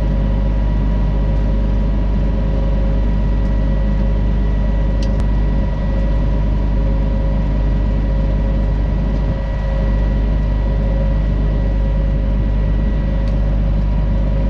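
Heavy farm machinery engine running steadily under constant load: a loud, even low rumble with a steady whine over it.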